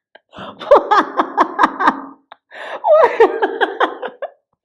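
A woman laughing uncontrollably in a fit of giggles, two bouts of rapid, pitched laughter pulses with a short break between them.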